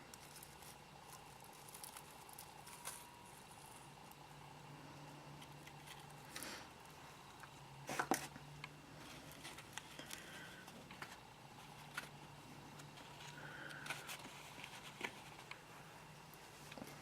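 Faint, scattered small clicks, taps and rustles of hands handling succulents and their pots, with a brief louder cluster of clicks about eight seconds in, over a faint steady hum.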